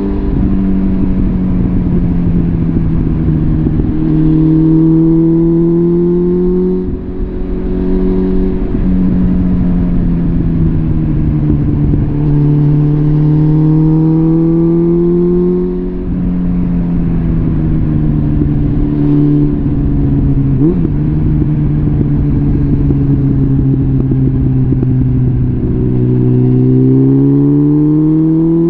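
Suzuki GSF650 Bandit's inline-four running through a complete Arrow aftermarket exhaust while ridden. The engine note rises and falls several times as the rider accelerates and shifts, climbing again near the end.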